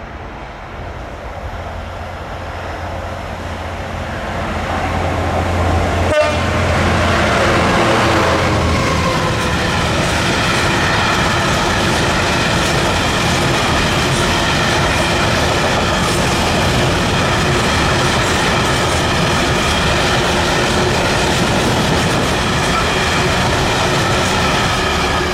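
Class 66 diesel-electric freight locomotive with its EMD two-stroke engine approaching and passing close by about six seconds in, its engine note dropping as it goes. A long rake of empty stone wagons follows, rolling past loudly and steadily with wheel noise and high ringing tones.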